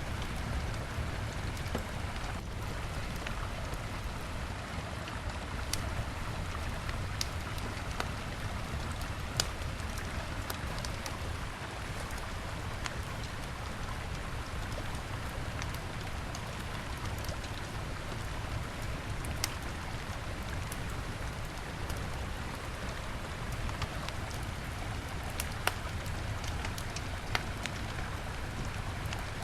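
Steady rush of a flowing river with a wood campfire crackling over it, giving scattered sharp pops a few seconds apart.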